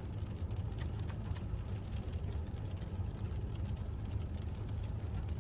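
Car engine idling with a steady low rumble and a few faint clicks about a second in.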